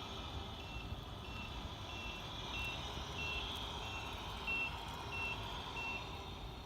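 Reversing beeps from an RC truck's sound unit: nine short beeps of one high tone, about one and a half a second, which signal the truck is backing up. A low steady rumble runs underneath.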